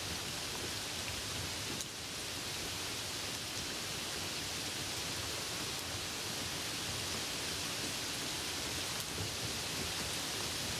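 Steady rain heard during a drive on wet roads: an even hiss, with a few faint drop ticks and a brief dip about two seconds in.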